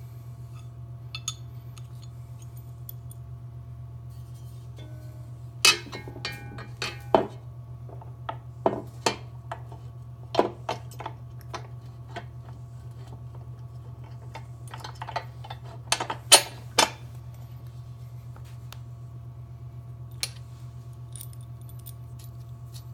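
Steel bolts and a metal bracket being handled and fitted, making scattered clinks and taps in irregular clusters, over a steady low electrical hum.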